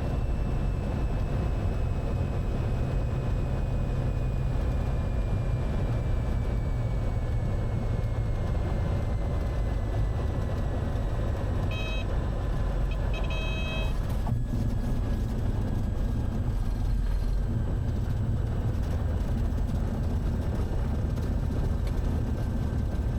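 Cockpit noise of a Cessna 182 Skylane: a steady engine and propeller drone, with a thin whine that slowly falls in pitch. Two short electronic beeps sound about 12 and 13 seconds in.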